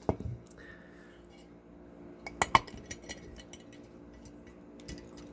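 Small diecast parts (wheels and metal pieces) clinking against each other and a container as they are dropped in to soak in degreaser: a few scattered clinks, with the loudest cluster of three or four a little past the middle.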